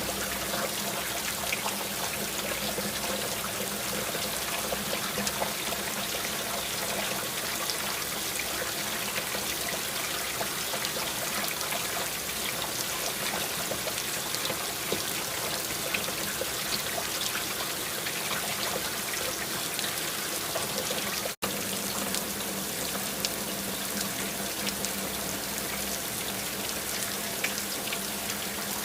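Steady rain falling, with many small drop ticks over a continuous wash and a faint low hum beneath. The sound cuts out for an instant about two-thirds of the way through.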